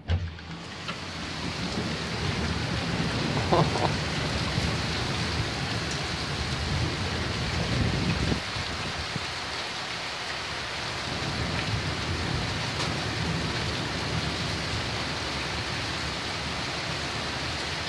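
Heavy downpour during a thunderstorm: a loud, steady hiss of rain pouring down that comes in suddenly at the start. A low rumbling runs underneath for the first eight seconds or so, then stops.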